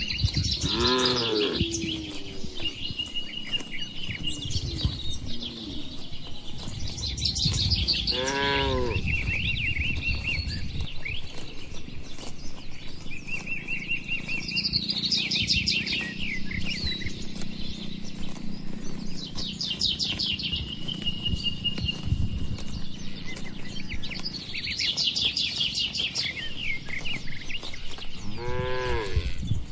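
Cattle mooing: a couple of calls at the start, another about a third of the way in, and one more near the end, each a bending, drawn-out low call. Small birds chirp and trill repeatedly in the background.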